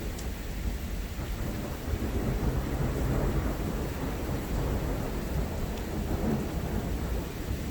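Thunder rumbling over steady rain, the rumble swelling about two seconds in and easing near the end.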